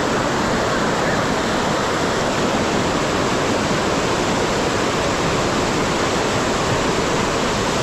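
Floodwater rushing and churning as a loud, steady wash of noise that does not let up.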